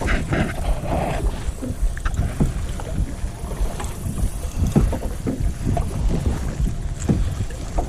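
Kayak paddle strokes in lake water, with irregular splashes and light knocks, over a steady low rumble of wind on the microphone.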